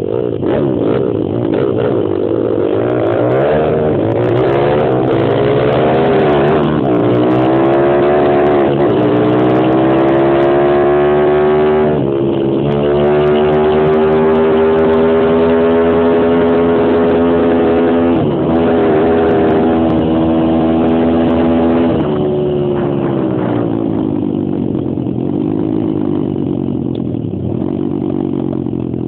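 Superstomp X140 pit bike's single-cylinder four-stroke engine revving hard under acceleration, its pitch climbing and dropping sharply at each gear change, then held at high revs. For the last several seconds it eases off to lower, rising-and-falling revs.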